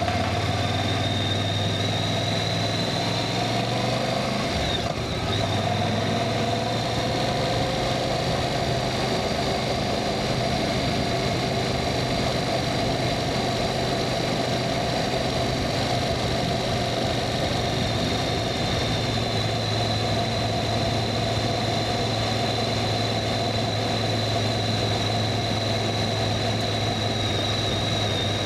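Voge DS625X motorcycle's parallel-twin engine running at a steady speed, with a brief dip about five seconds in.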